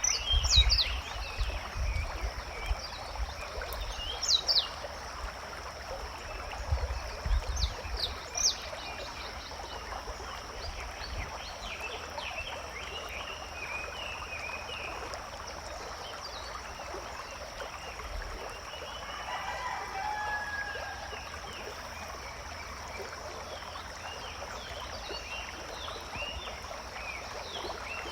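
Forest ambience: scattered bird chirps over a steady background hiss and a steady high-pitched hum. Low thumps come in the first several seconds, and a short lower call sounds about twenty seconds in.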